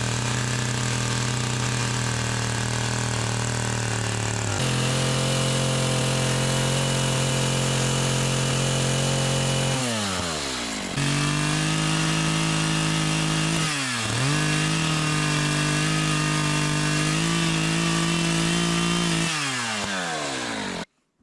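A small engine running at high speed. Its pitch steps up once, dips sharply twice as if bogging under load, and falls away near the end before the sound cuts off abruptly.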